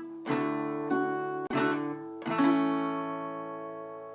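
Acoustic guitar strumming a few closing chords of a ballad, the last chord left ringing and slowly fading.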